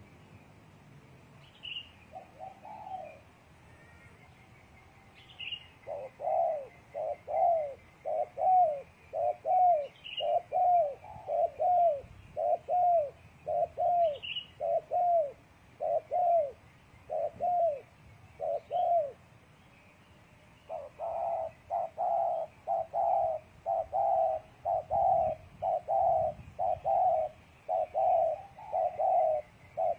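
Spotted doves cooing in a long series of short, repeated coos, about two a second, with a brief break and then a faster run near the end. A few faint high chirps from a small bird sound in the first half.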